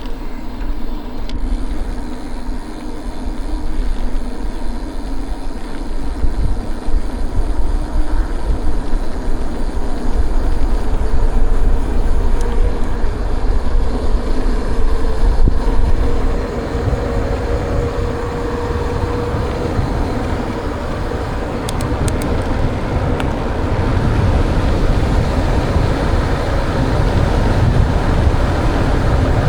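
Wind rumbling on the microphone and tyre noise from a mountain bike riding a trail, a steady low noise that grows stronger toward the end.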